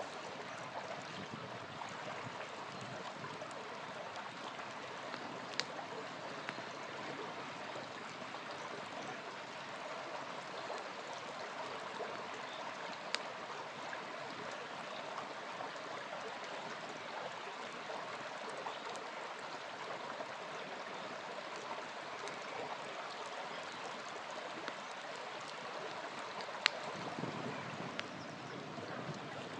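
A small river flowing steadily, with a wood campfire crackling and giving a few sharp pops, the loudest near the end.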